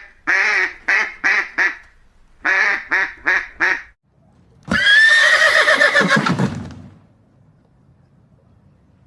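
Two short runs of rapid waterfowl calls, then a horse whinnying once, loud and wavering and falling in pitch for about two seconds.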